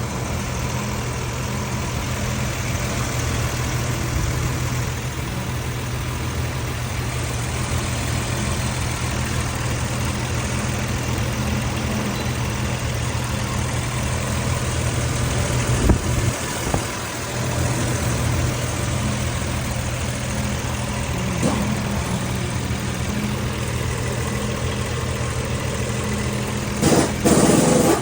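Toyota 1FZ straight-six engine idling steadily, with a couple of short knocks about halfway through and a louder clattering burst near the end.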